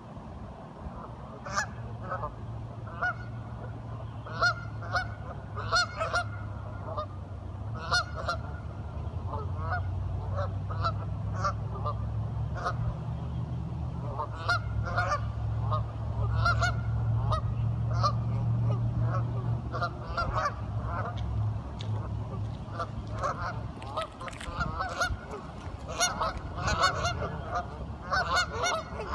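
A group of ducks calling over and over, many short honking quacks overlapping, over a steady low rumble that swells in the middle.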